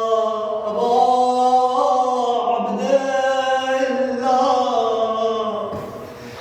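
A man chanting a drawn-out elegiac lament in long held notes that slide slowly up and down, fading away near the end.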